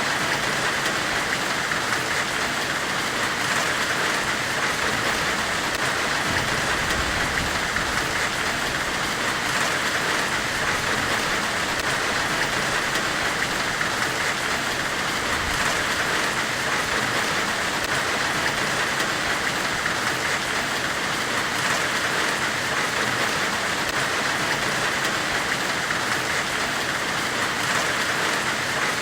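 Steady, even hiss of a forge-weld white-noise ambience, unchanging throughout, with no hammer strikes or other events.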